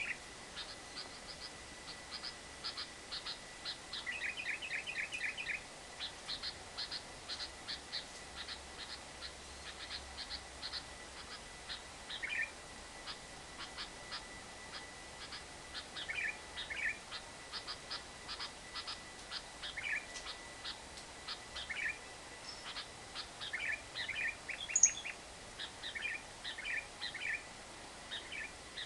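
Lovebird calling in repeated bursts of rapid, short, high chirps: the fast chattering trill that keepers call ngekek. One sharper, higher note comes a little before the end.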